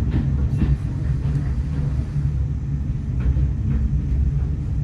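Railway train making a steady low rumble, with a few faint ticks over it.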